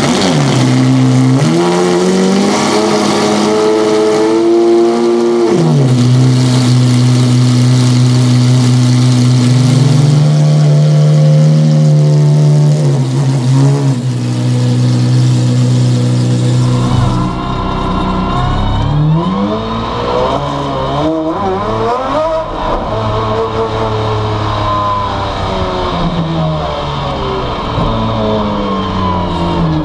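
Maserati MC12 Corsa's naturally aspirated 6.0-litre V12 race engine, heard at the exhaust: it is revved and held, drops to a steady low idle, and is blipped. After that it is heard from inside the cockpit at low speed, revs rising and falling several times.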